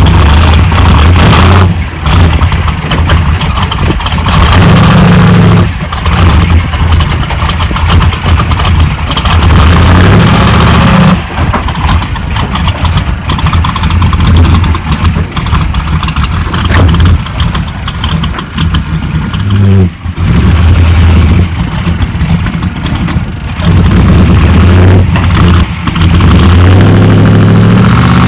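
A built 600-horsepower race truck's engine driven hard, very loud, its pitch climbing and falling as it accelerates and shifts, with brief lifts of the throttle about 2, 6, 11, 20 and 23 seconds in. A constant rush of noise runs under the engine.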